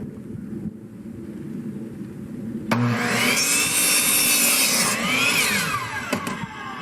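Power saw starting up about three seconds in and cutting a mitred end off a wooden frame board, its whine falling away as the blade spins down near the end.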